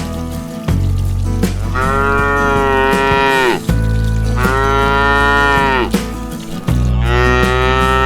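A cow mooing three times, each a long, even call of about a second and a half, over a steady low background.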